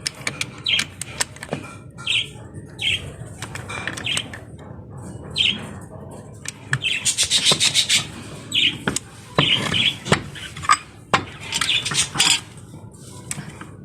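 Small birds chirping in short repeated calls, mixed with scattered sharp clicks and taps.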